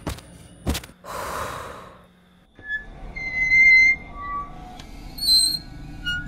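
A short click, then a breathy gasp lasting about a second, followed after a brief hush by a scatter of short, steady high tones from the film's background score.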